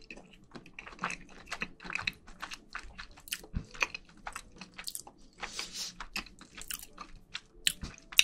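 Close-miked chewing of a mouthful of rice with spicy marinated raw crab: dense, irregular wet smacks and mouth clicks.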